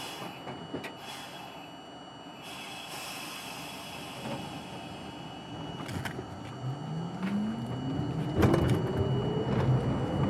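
R42 subway car's traction motors starting up as the train pulls out of a station, a whine rising steadily in pitch from about six seconds in and growing louder. Before it, a steady hiss with a few clicks.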